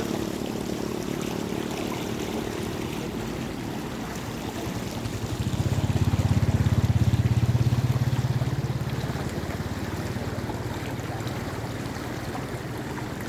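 Floodwater flowing steadily, with a small engine's low pulsing hum swelling louder and passing between about five and nine seconds in.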